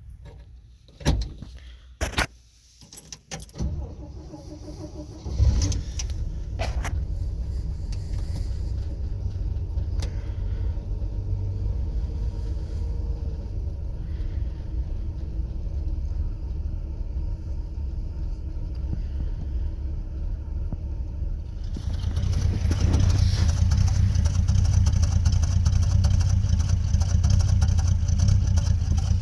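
Cold start of the worn-out straight-six engine in a 1966 GMC pickup. A few sharp clicks come first, then the engine catches about five seconds in and runs steadily, getting louder from about 22 seconds in.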